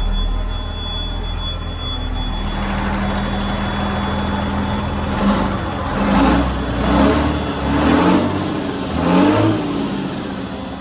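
John Deere JD6081H 8.1-litre six-cylinder diesel running steadily, louder from about two and a half seconds in, then revved up in short pulses about once a second through the second half before easing off.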